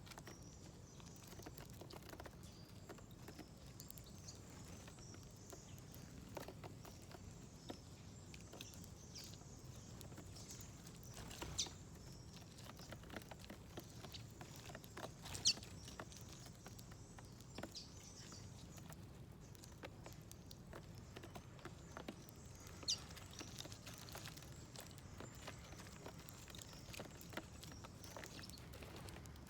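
Faint, irregular light tapping and ticking of small birds pecking at seeds on a feeder plate, with a few sharper high ticks standing out, the loudest about halfway through.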